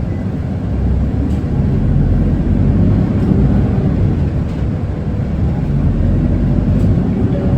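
Isuzu Erga city bus's four-cylinder diesel engine pulling the bus away from a stop, heard from inside the cabin; the engine note and road noise rise about a second in as it accelerates.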